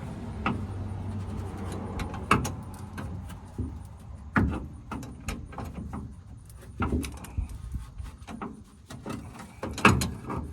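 Hand tools clinking and knocking against metal as a wrench and vice grips work a rusted, seized nut under a truck, in scattered sharp clicks and clanks.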